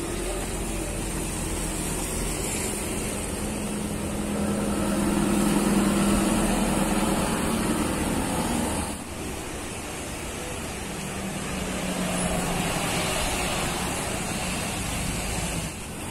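Heavy vehicle engine passing, growing loudest about five to eight seconds in; the sound changes abruptly around nine seconds in, and a second vehicle swells and fades after that.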